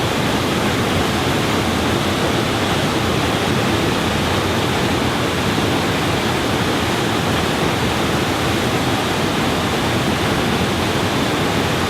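Waterfall rushing with a loud, steady, unbroken noise.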